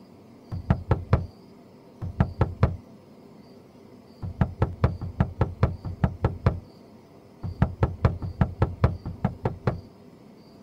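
Rapid knocking on a door in four bursts: two short runs of about five knocks, then two longer runs of a dozen or more, with short pauses between.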